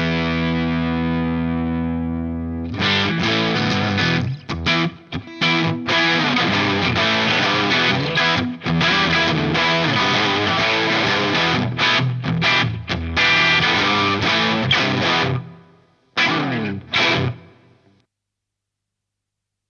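Electric guitar played through a DOD Looking Glass FET overdrive pedal with an overdriven tone. A held chord rings out, then a choppy chord riff with short stops, ending on two short stabs.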